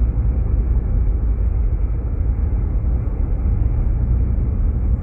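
Steady low rumble of tyre and engine noise heard inside the cabin of a moving Jeep Grand Cherokee.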